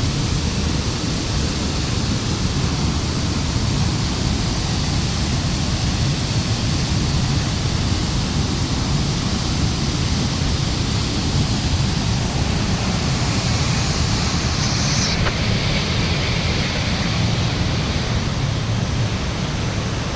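A big waterfall's steady rush of falling water: an even hiss over a strong, constant low rumble. Partway through, the highest part of the hiss drops away.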